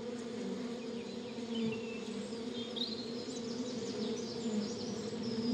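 Honeybees buzzing steadily around their hives, a dense continuous hum, with faint short high chirps above it.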